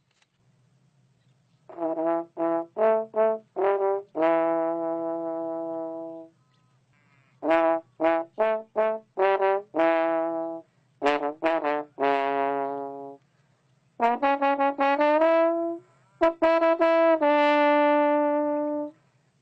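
A brass instrument, trombone-like, playing a melody in four phrases: each is a run of quick short notes ending on a long held note.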